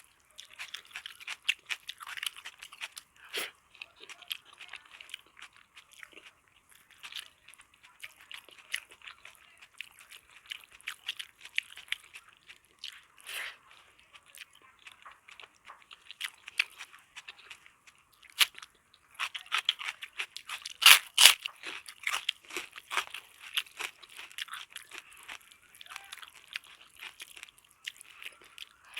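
Close-miked eating sounds: a person chewing and crunching food in a steady, irregular run of crackly bites, with a few sharper, louder crunches about 21 seconds in.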